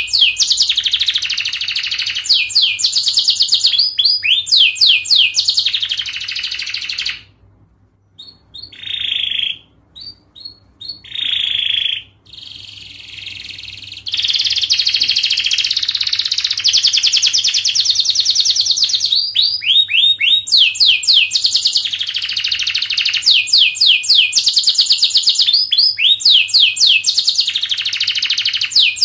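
Domestic canary singing long, fast song: rapid trills and quickly repeated downward-sweeping notes. The song drops away about seven seconds in, comes back as a few short phrases, then runs on as continuous trilling from about halfway through.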